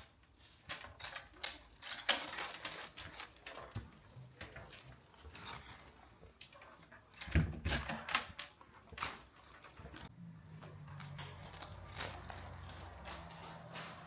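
Scattered light clicks and knocks of small objects being handled, with a dull thump about seven seconds in; a low steady hum sets in about ten seconds in.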